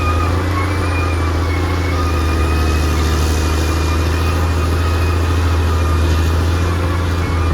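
Caterpillar D6R XL bulldozer's diesel engine running steadily with a deep, even drone. A faint, slightly wavering whine sits above it.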